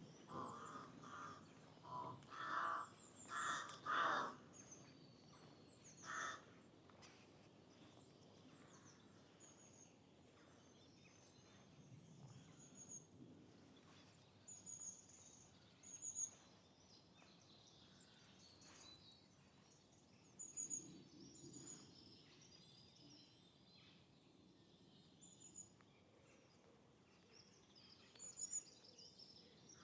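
Birds calling: small birds give short, high chirps throughout, and a louder bird calls several times in quick succession in the first four seconds and once more about six seconds in. A faint steady hiss runs underneath.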